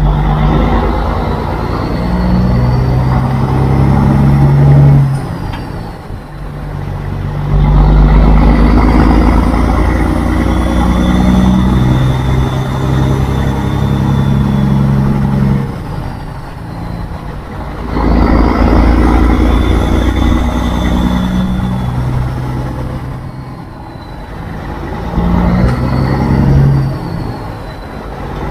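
Kenworth W900 semi truck's diesel engine running under load, swelling loud and easing back about four times as it pulls through the gears.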